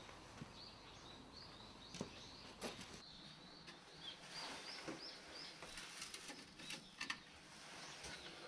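A small bird chirping faintly in a run of short, quick high notes, with a few sharp knocks of clay pieces being set down on the kiln's brick floor.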